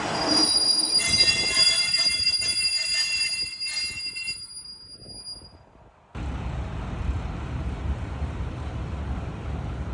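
A diesel railcar's wheels squealing, holding several high steady tones that fade away over the first few seconds. After an abrupt cut about six seconds in, a steady low rumble follows.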